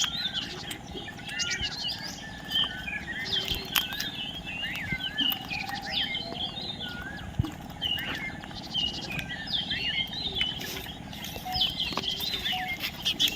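Parrots chirping and chattering: many short, quick calls overlapping throughout, with a few sharp clicks among them.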